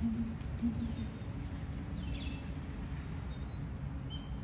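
Several short, faint bird chirps and whistled notes, some gliding down in pitch, over a steady low hum.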